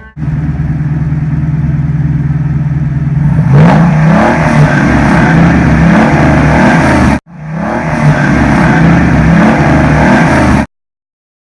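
A car engine running steadily, then revving repeatedly in rising sweeps of pitch as it accelerates. It cuts out briefly partway through and stops abruptly near the end.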